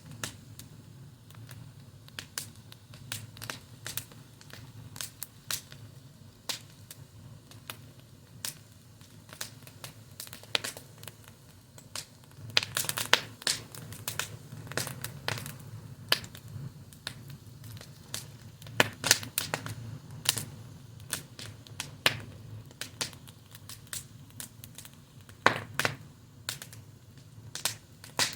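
Fire crackling: irregular sharp pops and snaps over a low steady rumble, with louder clusters of pops near the middle and again near the end.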